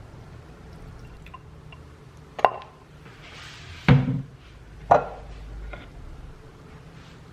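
Three sharp knocks of hard objects, about a second apart, the middle one with a deeper thud; a brief hiss comes just before the middle knock.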